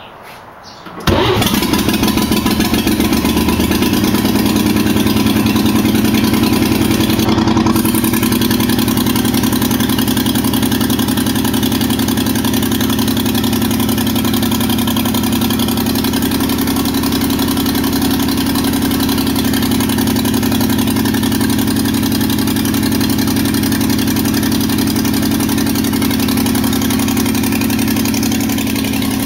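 A 1953 Chevrolet 3100 pickup's freshly rebuilt engine starting about a second in, catching at once and then running steadily. This is its first start in almost 20 years.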